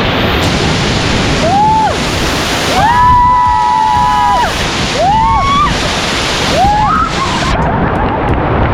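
Steady loud rush of falling water from a waterfall, with several short, high, voice-like calls over it, one held for about a second and a half near the middle.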